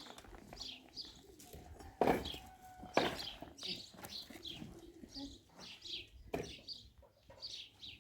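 Small birds chirping over and over, with two sharp knocks about two and three seconds in.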